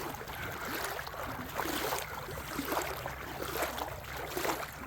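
Footsteps crunching along a rocky creek bed, about one step a second, over the steady rush of the flowing creek.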